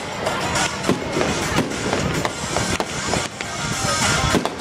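Aerial fireworks shells bursting, with a dense run of sharp bangs and crackles.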